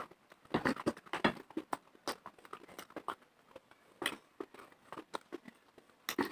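A person biting and chewing dry clay in the mouth: irregular sharp crunches and crackles, with a dense cluster about a second in and another around four seconds.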